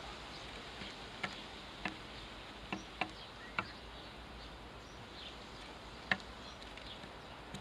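A bird pecking at scattered seed: a handful of sharp, irregular taps over a steady hiss, with faint high chirps of small birds in the background.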